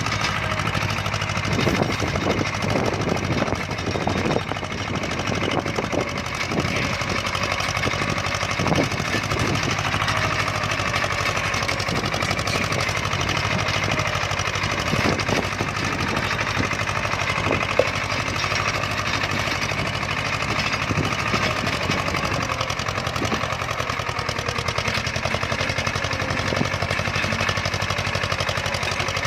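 Tractor engine running steadily, with scattered short knocks and rattles over its hum.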